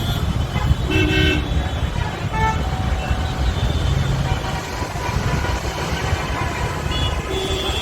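Highway traffic rumbling past, with a short vehicle horn toot about a second in and a second, briefer toot a little later.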